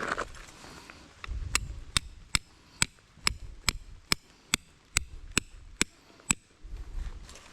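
Tent peg being hammered into the ground: about a dozen sharp strikes at a steady rhythm, a little over two a second, beginning about a second and a half in and stopping about a second before the end.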